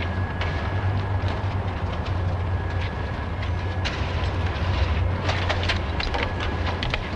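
A steady low hum with scattered sharp clicks and taps, coming quicker in a short run about five seconds in.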